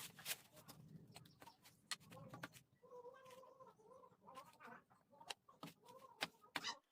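Faint scattered clicks and knocks, with a short wavering animal call about three to five seconds in.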